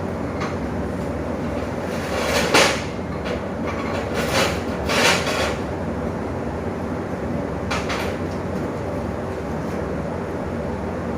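Steady machine hum, with four short bursts of hiss from about two to eight seconds in, the first the loudest.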